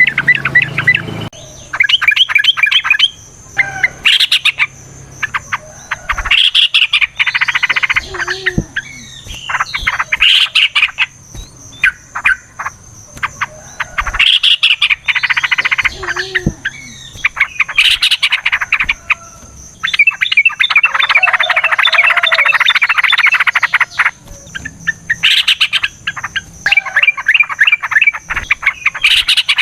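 Yellow-vented bulbul song: loud bursts of rapid, bubbling chattering phrases, repeated again and again, with one long unbroken flurry in the second half. This is the long, rapid, aggressive fighting song. A thin, steady high tone runs underneath.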